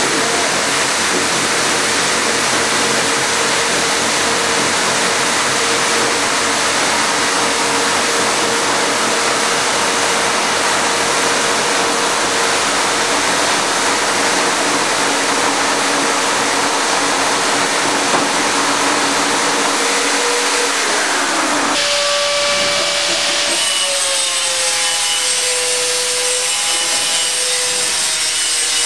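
Homemade slot-milling machine, with electric drills driving the cutters, running and milling slots in fruit-tray parts: a loud, steady cutting noise over a motor whine. About 21 seconds in, the whine sags and then settles at a new pitch as the cut moves on.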